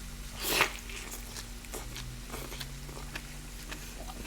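Close-miked eating: one loud crunching bite about half a second in, then chewing with many short crisp clicks.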